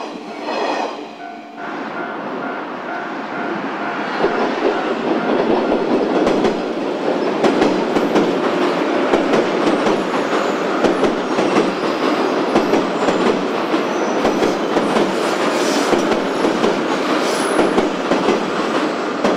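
JR West 201 series electric commuter train running past on track, a steady rumble of wheels and car bodies with the clickety-clack of wheels over rail joints. The sound dips briefly about a second in, then builds to a steady rumble as the train passes along the elevated line.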